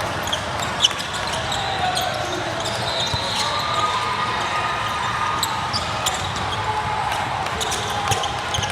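Basketball bouncing on a gym floor amid many short sharp clicks and high squeaks, over a steady murmur of spectators' voices.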